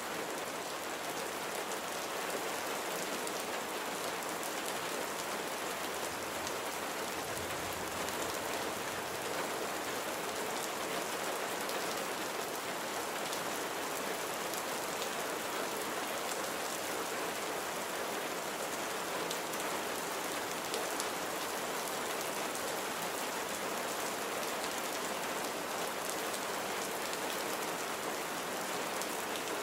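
Steady, even rain falling, a dense hiss of many drops with fine individual ticks through it.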